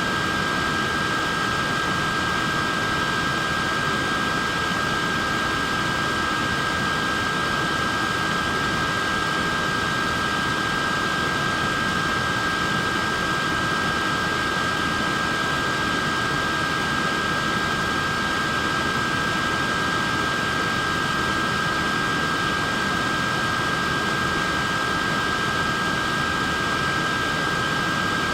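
Portable neck fan running steadily: an even airy hiss with a constant high motor whine.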